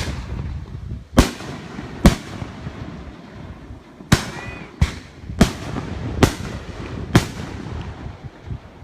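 Fireworks bursting overhead: about eight sharp bangs at uneven intervals, each trailing off in a short echo, with three in quick succession in the second half.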